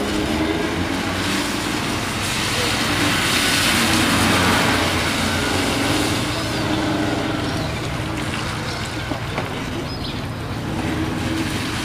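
BMW E36 3 Series sedan's engine running hard as the car slides through a cone course on wet tarmac. A hiss of water from the tyres swells around four seconds in.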